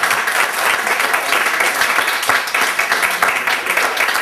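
A small group of people applauding, many hand claps blending into steady clapping.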